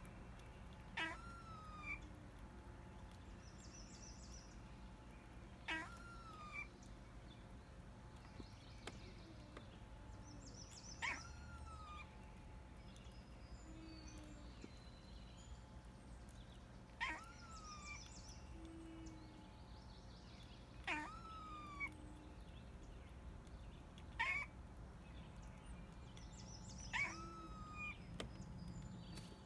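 A cat meowing in short calls that rise sharply and then drop off, repeated every few seconds, about seven times.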